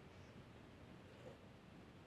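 Near silence: faint steady room tone and hiss, with one tiny soft sound about a second in.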